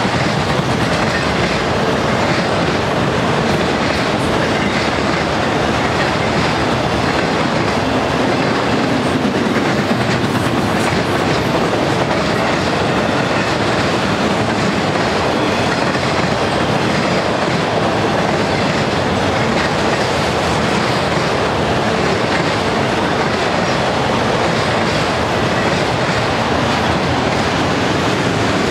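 Auto-rack freight cars of a long train rolling past on the track: a steady, unbroken noise of steel wheels running on rail.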